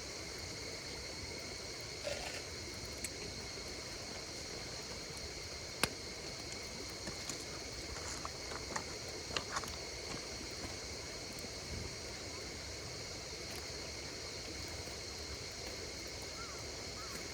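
Insects singing steadily in several high, thin, unbroken tones, over the low hiss of a wood campfire that gives a few sharp crackles, the loudest about six seconds in and more around nine to ten seconds.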